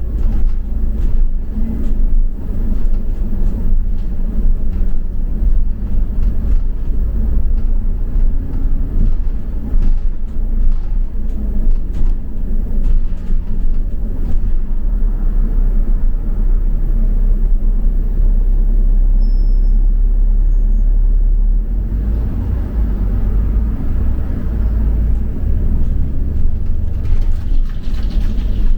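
Double-decker bus heard from on board: a steady low engine and road rumble with frequent small rattles, changing in character about two-thirds of the way through.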